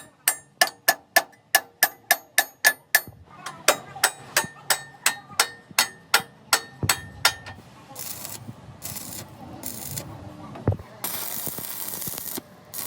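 Hammer striking steel in a steady rhythm, about three ringing blows a second, stopping about seven seconds in. After that come several short bursts of hissing noise.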